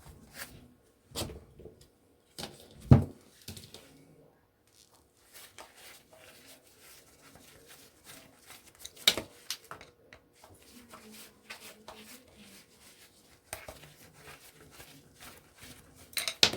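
Scattered clicks and knocks of a Phillips screwdriver and loose parts being handled while a kitchen extractor fan motor is taken apart, with a sharp knock about three seconds in and another about nine seconds in.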